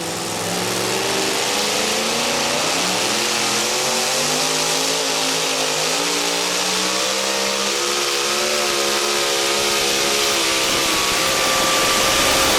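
Modified two-wheel-drive pulling truck's supercharged engine at full throttle during a sled pull, its pitch climbing with a wavering sound and a dip about halfway through, growing louder toward the end.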